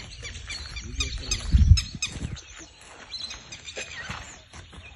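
Many birds chirping and calling in quick, varied notes, with a brief loud low thump about one and a half seconds in.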